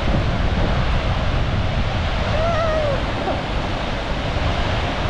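Steady rushing of a large waterfall heard close up, in the middle of its spray. A short faint wavering whistle-like tone sounds about two and a half seconds in.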